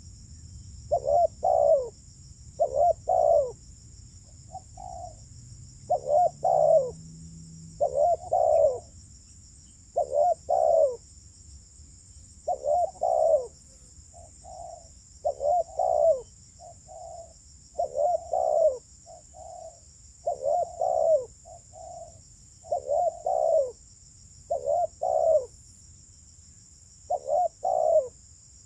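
Spotted dove cooing over and over: mostly paired coos about every two seconds, with softer single coos between them.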